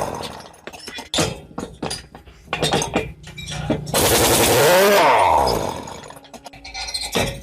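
Metal tools clinking and knocking on metal, with a loud grinding burst in the middle whose pitch sweeps down and back up.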